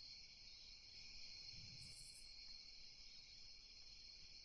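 Faint night ambience of crickets chirping steadily.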